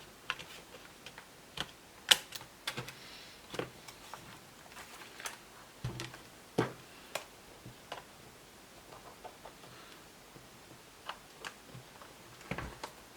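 Scattered small clicks and taps, irregularly spaced, from handling a laptop's RAM module: a 2 GB PC3 SO-DIMM being fitted into its slot.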